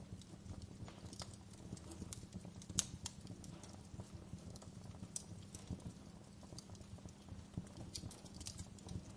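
Wood fire burning in a fireplace: a low, soft rumble of flames with irregular crackles and pops, the sharpest pop about three seconds in.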